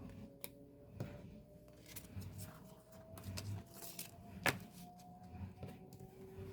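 Hands handling a K-pop album's packaging and cards: scattered clicks, taps and short paper rustles, with one sharper click about four and a half seconds in. A faint steady hum sits underneath.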